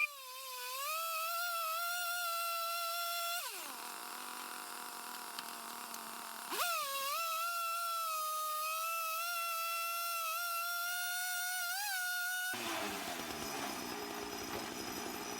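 Sawmill running with a steady high-pitched whine. Its pitch drops sharply about three and a half seconds in and climbs back about three seconds later. Near the end it changes to a rougher, noisier running sound.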